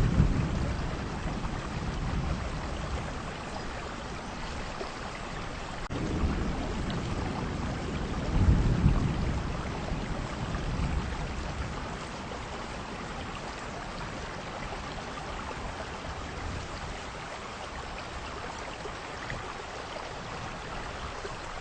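Heavy rain falling steadily, with low rumbles swelling up right at the start and again about eight seconds in before it settles to an even hiss.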